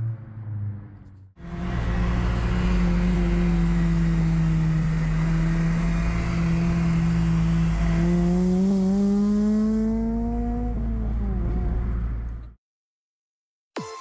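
2006 Acura RSX Type-S's K20Z1 2.0-litre four-cylinder through an Invidia N1 cat-back exhaust. It falls in pitch as the car slows. After a sudden cut it runs steadily at cruising revs, rises in pitch as the car accelerates about eight seconds in, eases off, and stops abruptly.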